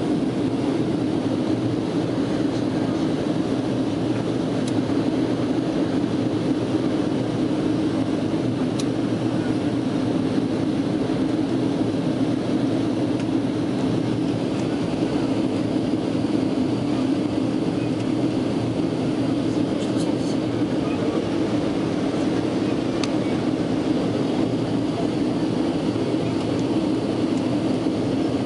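Steady drone of a Boeing airliner's cabin in flight: jet engine and airflow noise heard from inside, with a strong low hum and no change in level.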